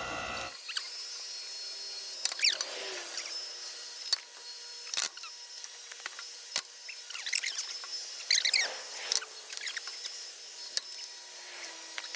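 Firewood splitting machine forcing its wedge through a hard log: the wood creaks in short squeaky squeals and gives sharp cracks several times as it tears apart, over a faint steady hum.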